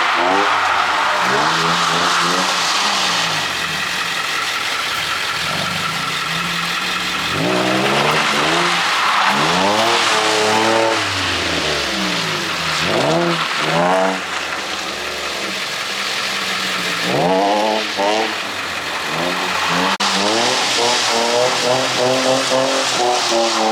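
Drift car's engine revving up and down again and again, with several sharp rises and drops and a quick wavering run of blips near the end, over a steady hiss of tyres and spray on the wet track.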